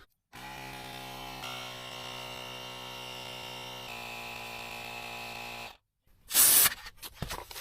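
Small electric tyre inflator (air compressor) buzzing steadily while it pumps up a flat trailer tyre, heard in a few joined pieces. A short burst of hiss near the end.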